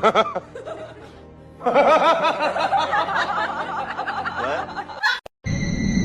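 A person laughing in quick, rapid bursts over background music, cutting off suddenly about five seconds in.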